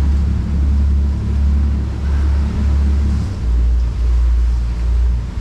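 Loud, steady low rumble of wind buffeting the microphone over rough sea water aboard a small boat, dropping a little lower about three seconds in.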